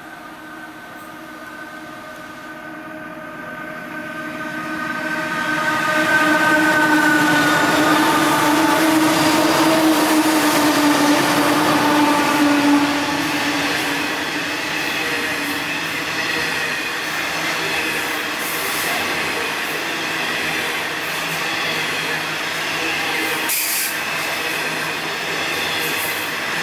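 A heavy coal train led by an XRN-class diesel locomotive approaches and passes. The locomotive engines' steady drone grows loud and drops slightly in pitch as they go by. After about thirteen seconds it gives way to the continuous rumble of loaded coal wagons rolling past.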